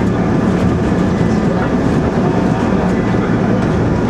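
Keisei 3300-series electric train rolling slowly, heard from on board: a steady rumble of steel wheels on the rails with a few faint clicks over the track.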